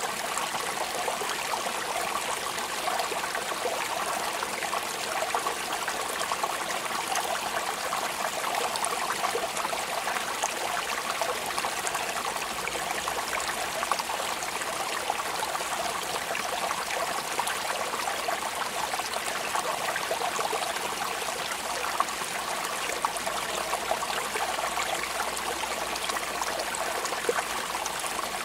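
Steady rain falling: an even, continuous hiss of water, with the fine patter of many small drops.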